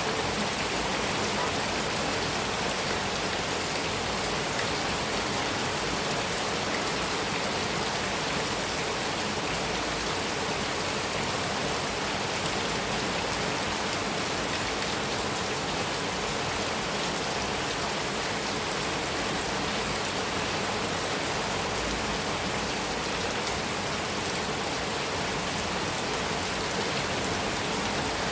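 Heavy rain falling steadily on a metal roof, a dense, even hiss of drops with no break.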